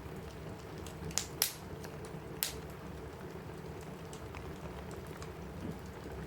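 Steady rain on a cabin roof mixed with a crackling wood fire; three sharp pops from the fire stand out between about one and two and a half seconds in.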